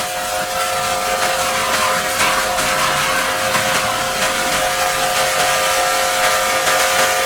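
A motor-driven machine running steadily, with a hiss and a few held tones.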